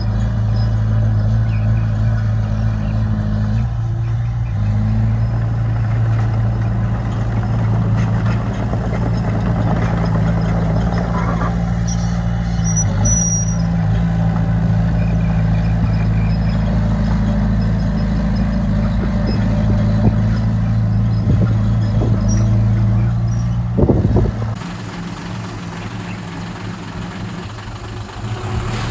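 Heavy diesel construction machinery engine running steadily under a load. Near the end there is a knock, after which the engine sound drops to a quieter level.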